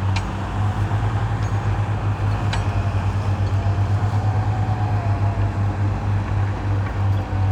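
Heavy diesel engine of earthmoving equipment (bulldozer or dump truck) running steadily with a fast, pulsing low throb, with two sharp metallic clanks near the start and about two and a half seconds in.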